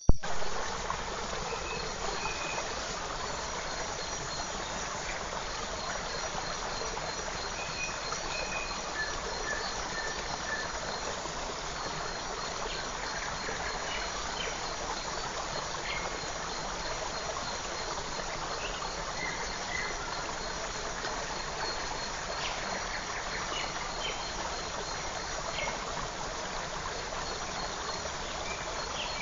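Forest creek running with a steady rushing of water, over which a faint, high, fast-pulsing trill runs throughout and birds give scattered short chirps.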